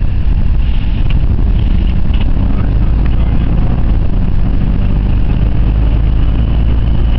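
Steady low drone of engine and road noise inside the cabin of a Jaguar XJ 5.0 supercharged V8 being driven on track.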